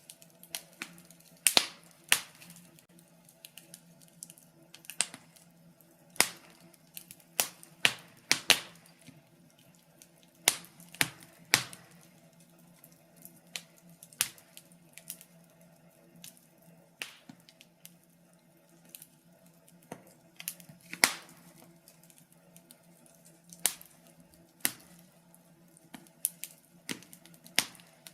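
Wood fire crackling in a fireplace: irregular sharp pops and snaps from the burning logs, several every few seconds, over a faint steady low hum.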